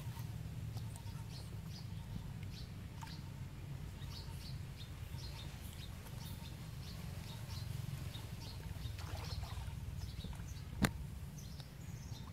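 Many short bird chirps scattered throughout, over a steady low rumble, with one sharp click near the end.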